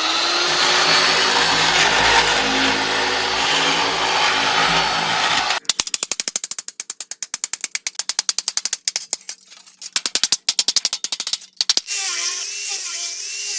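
Electric throatless metal shears running and cutting sheet metal for about five seconds, followed by a long run of rapid clicks. Near the end comes a quieter wavering whine.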